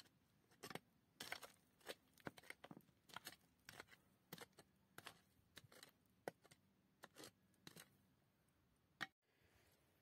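Faint, irregular clicks and short scrapes of hard objects being handled, a couple a second, stopping about 8 seconds in.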